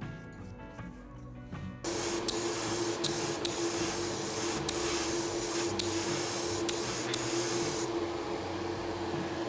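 Paint being sprayed: a steady hiss starts about two seconds in over a constant motor hum, with a few sharp clicks, and the hiss drops away near the end while the hum carries on.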